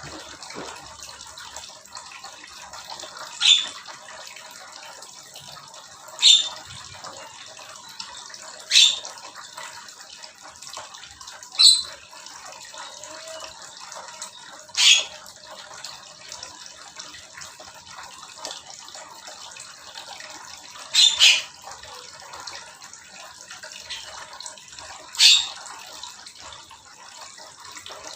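Small aviary birds, one giving a short sharp high call about every three seconds, nine times, over a steady rushing background like running water.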